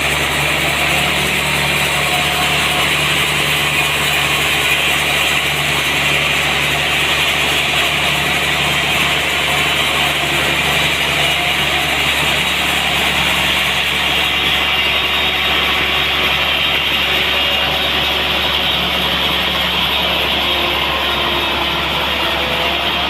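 Sawmill running steadily: a constant engine hum with a strong high hiss over it. The highest part of the hiss eases about fourteen seconds in.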